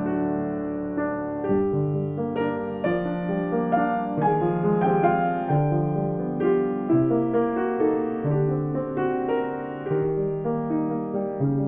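Solo piano playing a gentle piece, notes struck at an unhurried pace over held low chords.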